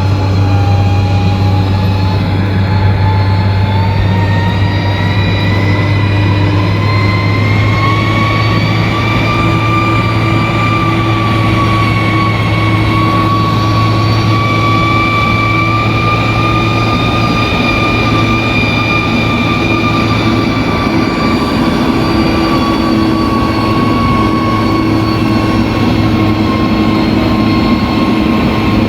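Bulldozer's diesel engine running steadily with a deep drone, over which a high whine climbs in pitch over the first ten seconds or so and then holds.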